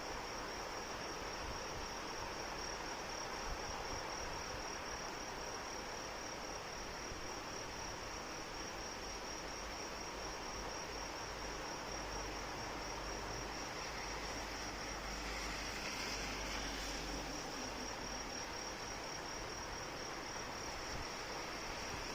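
Steady rain hiss with a continuous high insect trill over it, pulsing rapidly and evenly; the rain briefly swells about fifteen seconds in.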